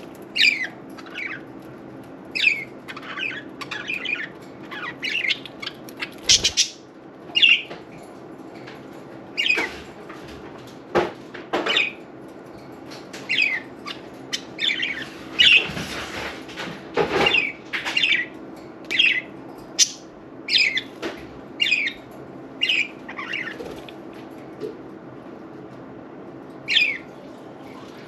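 Budgerigars chirping in many short, quick calls, with bursts of wing flapping as they bathe in a water fountain, over a steady low hum.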